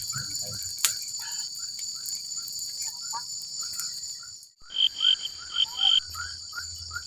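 Tropical forest night chorus: insects trilling steadily at a high pitch, with many short repeated chirping calls beneath them. The sound drops out briefly about halfway through, then a few louder chirps come in quick succession.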